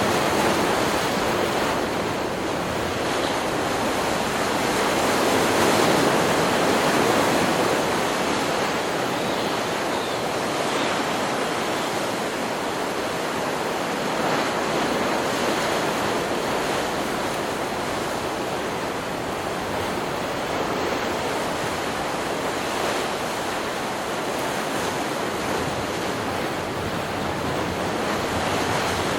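Stock recording of ocean surf: a continuous rush of breaking waves washing up a beach, swelling louder a few seconds in and then easing.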